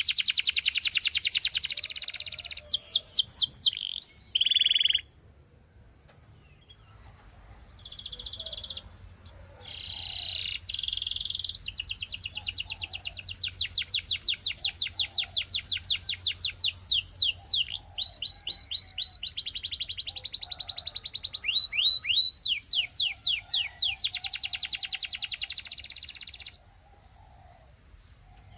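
Russian singing canary in full song: long rolling trills of rapidly repeated, quickly falling high notes. It switches from one roll to the next several times and breaks off briefly twice.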